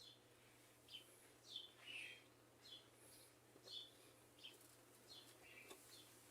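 Faint bird chirps: a string of short, high, downward-sliding chirps, about one or two a second, with a few higher notes, over a faint steady low hum.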